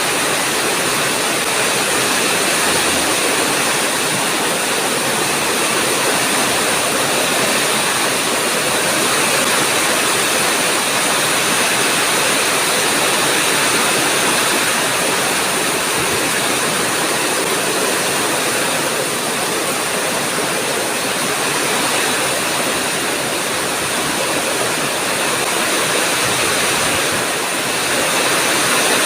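Heavy rainstorm: rain pouring down in a steady, loud rush.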